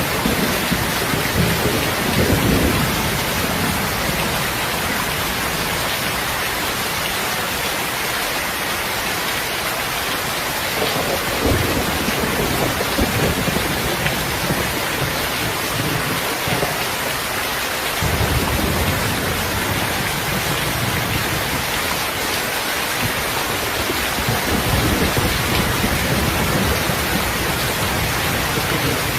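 Steady heavy rain, a dense even hiss, with low rumbles of distant thunder swelling and fading several times.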